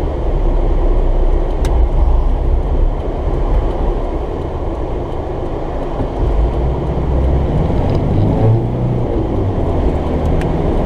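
Car driving along, a steady low engine and road rumble heard from inside the cabin. The engine note shifts partway through.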